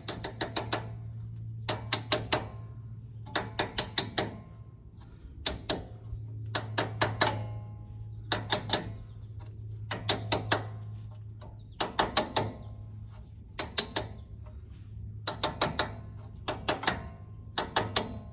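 Hammer tapping metal, knocking the old axle bearing race out of a Jeep Gladiator's rear axle housing. The blows come in quick ringing clusters of three to six, a cluster about every one and a half to two seconds.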